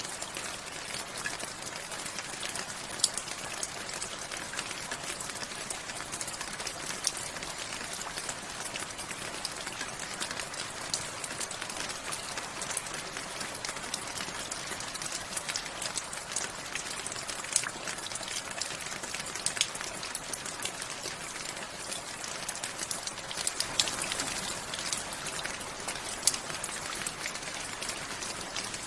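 Steady rain falling, an even hiss with individual drops ticking sharply on nearby surfaces here and there, swelling slightly about three-quarters of the way through.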